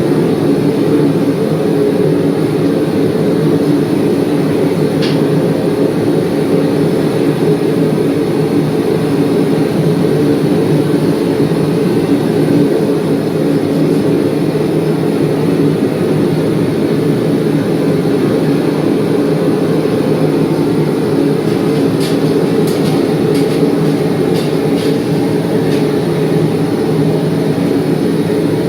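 Blacksmithing shop machinery running: a steady, loud mechanical roar from the forge and press equipment started up for forge-welding a Damascus billet. A few light metallic clicks come through about three-quarters of the way in.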